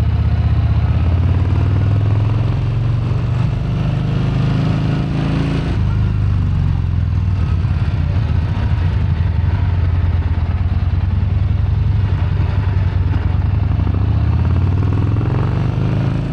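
Yamaha XV950 Racer (Bolt) air-cooled V-twin engine pulling on the road, its revs climbing and then dropping at a gear change about six seconds in, climbing again near the end.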